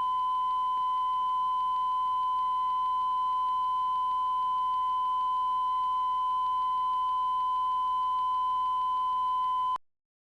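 Steady electronic test tone, one unchanging pitch of the kind used as a line-up tone at the head of a video tape, cutting off about half a second before the end.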